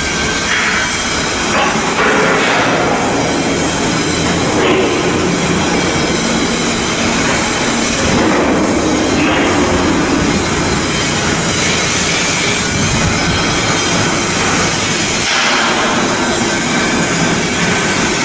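Loud, continuous noise of shipyard work on a hull under construction, with shifting hissing and grinding bands and no steady rhythm.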